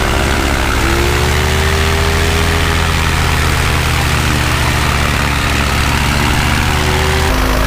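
Motorcycle petrol engine of a homemade light airplane running with its propeller turning; its pitch rises about a second in and then holds steady. The sound changes abruptly near the end.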